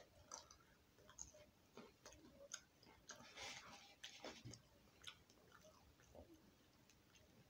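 Faint chewing of a mouthful of French bread pizza with a firm crust: irregular soft crunches and mouth clicks, a little crunchier about three seconds in.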